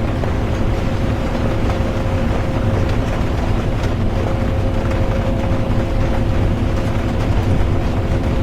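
Inside a moving bus: a steady, even rumble of engine and road noise with a constant hum, and rain on the bus over it.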